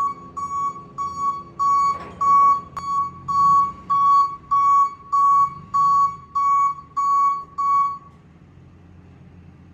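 Reverse warning beeper of a tow truck backing up, a steady high beep repeating about one and a half times a second, over a low engine hum. The beeping stops about eight seconds in.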